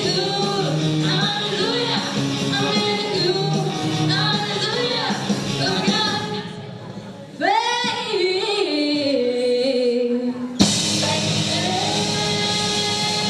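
Live rock band playing with a singer. About six and a half seconds in the band drops back, a voice holds a long note that steps downward, and about ten and a half seconds in the full band with drums and cymbals comes crashing back in.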